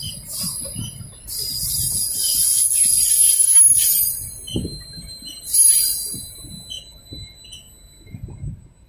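Freight train of hopper wagons rolling past, its steel wheels squealing high-pitched against the rails in stretches, loudest about three seconds in and once more briefly near six seconds. Under it runs a low, uneven clatter of wheels on the track as the last wagon goes by.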